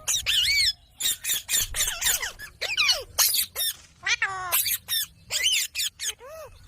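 Ringneck parrot giving a rapid string of short, high-pitched squawks and chattering calls, each swooping up and down in pitch.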